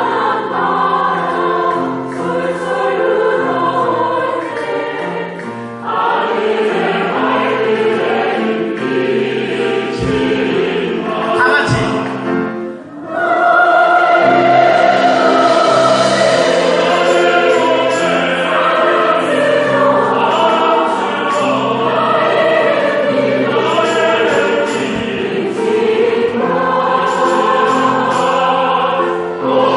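Many voices singing together in a choral sing-along over an instrumental accompaniment. There is a brief dip about twelve seconds in, then fuller, louder singing.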